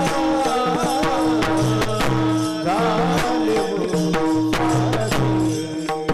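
Devotional kirtan music: a singer's voice over held drone notes, with regular percussion strikes keeping the rhythm.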